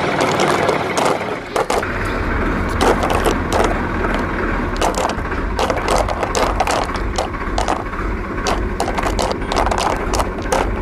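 Rapid, irregular clatter of small hard knocks and scrapes, like toy construction vehicles working through stones and dirt, over a steady low hum that starts about two seconds in.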